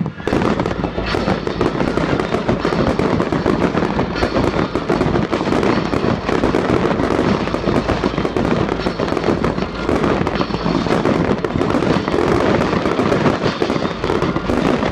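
Fireworks display: a dense, continuous run of crackling and bangs from bursting shells.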